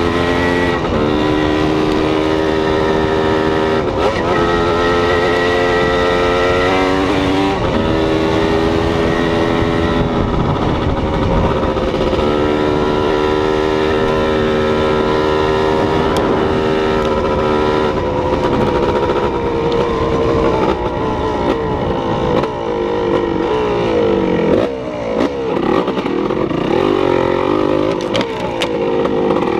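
A motor vehicle's engine running continuously, its pitch holding steady for a few seconds at a time and then shifting up or down as the revs change, over a steady rumble of road and wind noise.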